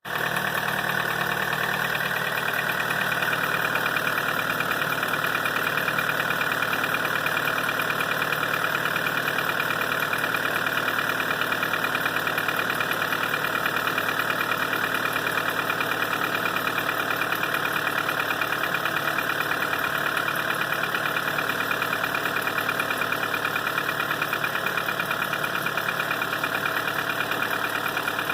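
Opel A16LET 1.6-litre turbocharged four-cylinder petrol engine, with 185,000 km on it, idling steadily just after a cold start at −9 °C.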